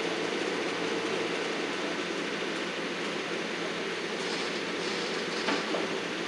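Engine of heavy landscaping machinery, such as a skid-steer or stump grinder, running steadily with a dense rushing noise. A faint steady tone fades out about a second in, and there is a short click near the end.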